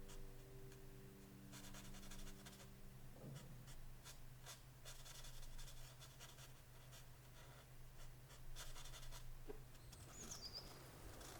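Pen nib scratching across paper in several short bursts of strokes, faint and close.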